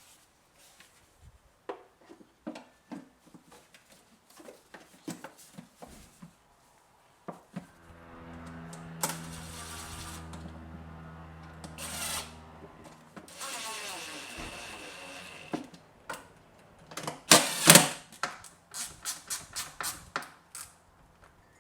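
Clicks and knocks of parts and tools being handled, with a small power tool's motor running steadily for about five seconds in the middle, then briefly again. A few loud knocks come near the end, followed by a run of quick clicks.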